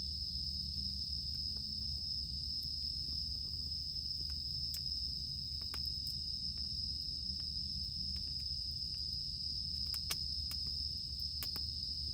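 Wood campfire crackling with scattered sharp pops over a steady, high-pitched insect drone.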